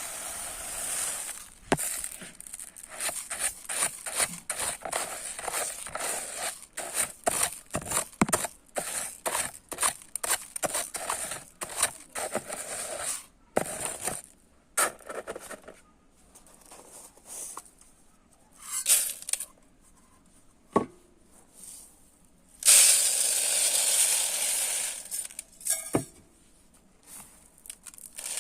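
Dry rice grains rustling and clicking as they are scooped and poured, in quick irregular bursts for the first half and more sparsely after. Near the end a steady stream of rice pours for about three seconds.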